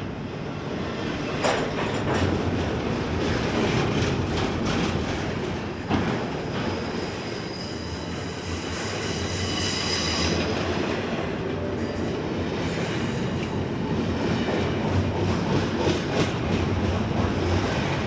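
BNSF freight train cars rolling past in a steady rumble, with sharp clicks of wheels over rail joints and thin high wheel squeal in places.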